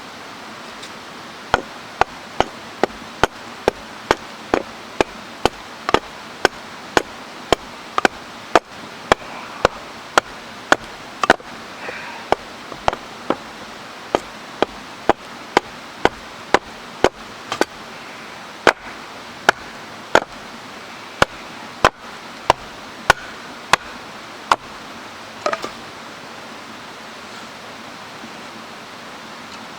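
Wood being chopped: a steady run of sharp chopping knocks, about one and a half a second, that stops a few seconds before the end. A stream rushes steadily underneath.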